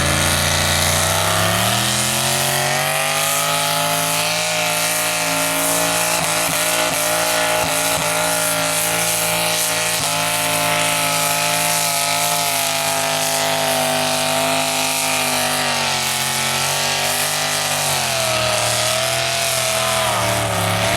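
Pulling tractor's engine running hard under load on a tractor pull run. It climbs in pitch over the first couple of seconds and holds at high revs. Near the end the pitch drops and wavers: the tone of the tractor changes as the load bites.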